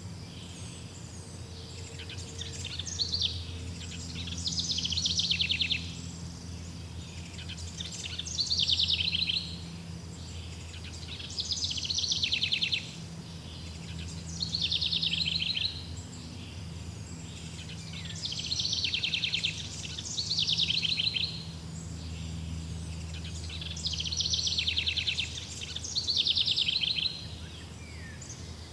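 A songbird repeatedly sings a short, fast trilled phrase, about nine times, every few seconds and often two in quick succession. A steady low hum runs beneath it.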